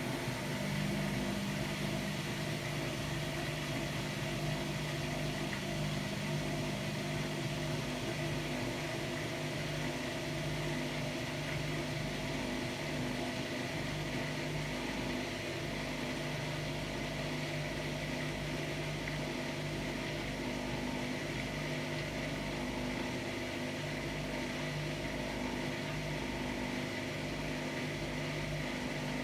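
Hotpoint-Ariston AQD972F washer-dryer with a brushless inverter motor running: a steady mechanical hum with a faint high whine, the hum shifting slightly now and then.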